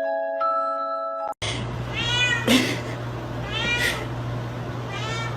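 A short bit of chiming mallet-percussion music that cuts off about a second and a half in, then a domestic cat meowing three times, each meow rising and falling in pitch, over a steady low hum.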